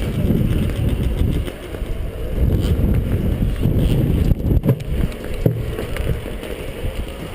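Dirt bike engine running, with uneven wind buffeting on the microphone swelling and dropping throughout.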